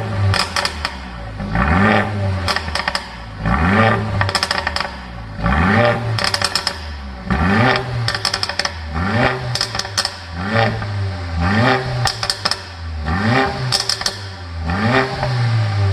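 Mercedes-AMG CLA45's turbocharged four-cylinder engine revved in short blips about every one and a half seconds, through a straight-piped exhaust with the middle muffler removed. Each rev climbs in pitch and drops back, with a burst of crackles and pops on lift-off.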